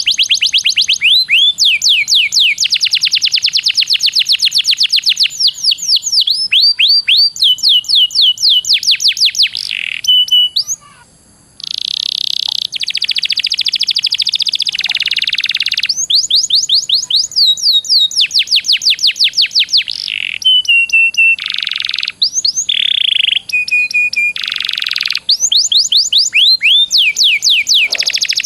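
Songbird singing loudly in fast, rolling runs of repeated falling whistled notes, many to the second. The runs are broken by harsh, buzzy stretches and short held whistles, with a brief pause about 11 seconds in.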